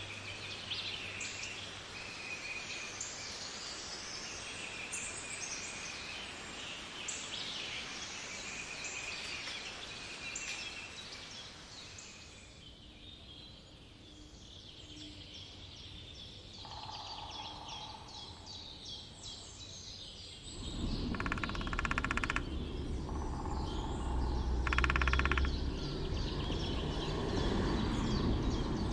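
Songbirds chirping and singing over a steady background hiss, thinning out about halfway through. In the second half a woodpecker drums in a few short bursts of very fast taps, and a loud low rumble comes in about two-thirds of the way through.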